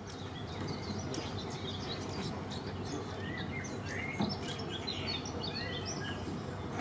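Several small birds chirping and singing in quick short notes over a steady low background rumble.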